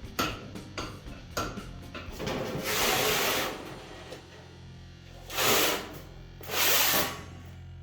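Three loud bursts of hiss, the first about a second long and the other two shorter, over background music with a steady low hum.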